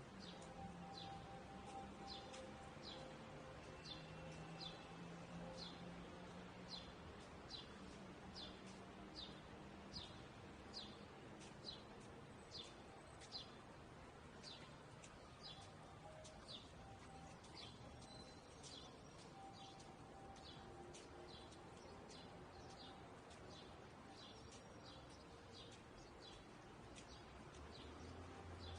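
Faint, quick chirps repeated at an even pace, about one to two a second, like a small bird calling over and over, over a faint low background hum.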